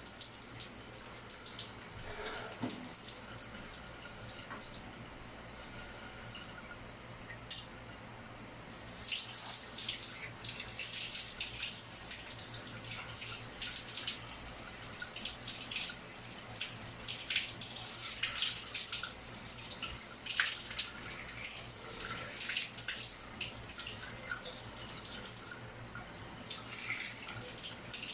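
Running water, faint with a few drips at first, then a strong splashing flow from about nine seconds in that eases briefly near the end.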